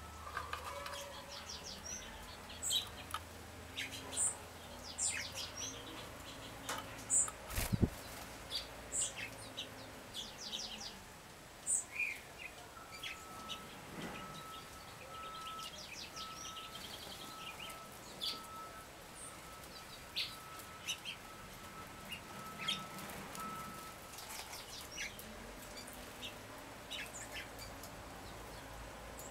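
Wild songbirds calling, many short high chirps and twitters scattered throughout. A steady high tone runs from about a third of the way in to about four-fifths through, and a single low thump comes roughly a quarter of the way in.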